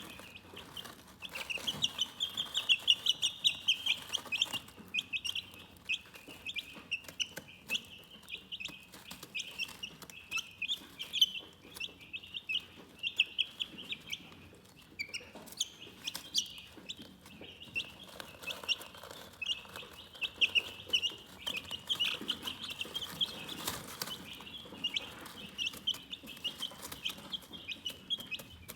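Chickens chirping: a dense, continuous stream of short high-pitched peeps, several a second, some louder than the rest.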